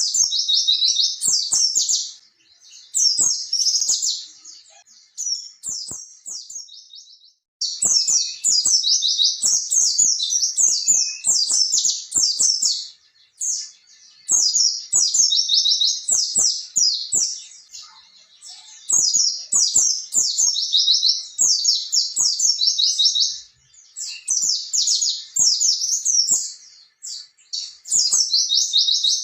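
A white-eye (pleci) singing its long, rapid, rolling wild-type song, high-pitched phrases of several seconds each separated by brief pauses.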